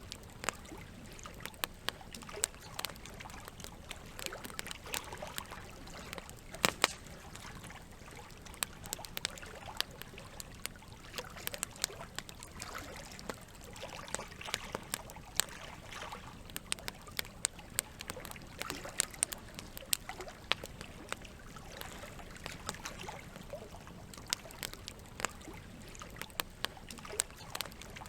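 Campfire wood crackling and popping in irregular sharp snaps, over a steady wash of gently running water.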